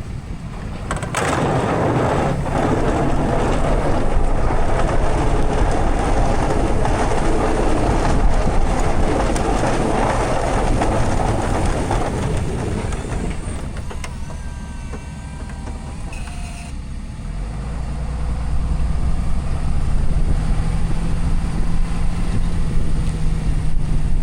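Snowplow truck running: a loud rushing noise for the first dozen seconds, a quieter few seconds with faint high steady tones, then a low steady engine drone that grows louder near the end.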